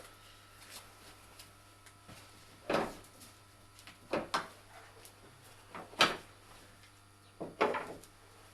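Four separate sharp knocks or clunks a second or two apart, the third the loudest, over a faint steady hum.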